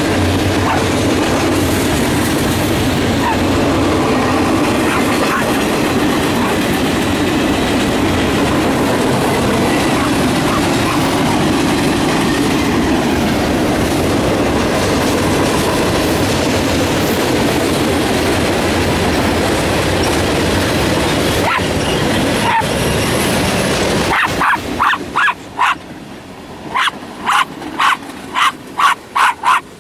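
Freight train rolling past: diesel locomotives and then boxcars, with a steady rumble and clatter of wheels on rail. About 24 seconds in this gives way to a small terrier-type dog barking, about a dozen sharp barks in quick succession.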